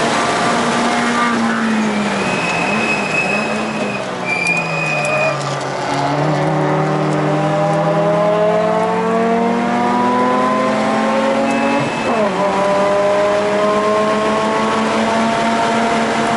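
Mazda RX-8's rotary engine heard from inside the cabin at track speed. The pitch falls as the car slows into a corner, with a brief high tyre squeal about three seconds in. It then rises steadily under acceleration, dips sharply at an upshift about twelve seconds in, and climbs again.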